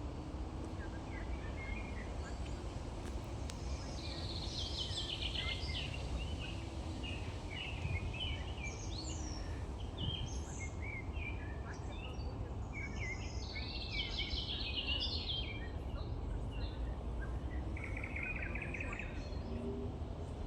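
Nightingale singing: varied phrases of short whistles and clicks, broken by fast rattling trills, with the loudest trills about four, thirteen and eighteen seconds in. A steady low rumble of background noise runs underneath.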